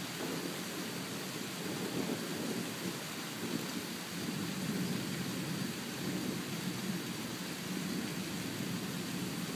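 Thunderstorm: steady rain with a low, continuous rumble of thunder and no sharp crack.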